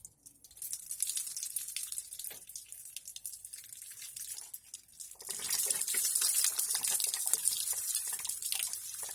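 Engine coolant gushing out of a disconnected radiator hose and splashing down, a thin flow at first that becomes a much heavier, louder pour about five seconds in.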